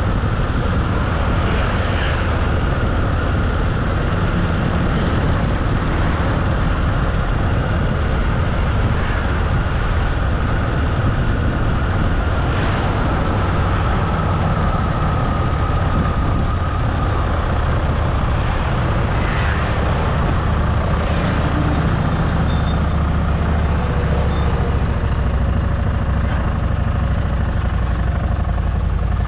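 Harley-Davidson motorcycle engine running steadily while riding at cruising speed, a continuous low rumble mixed with wind and road noise.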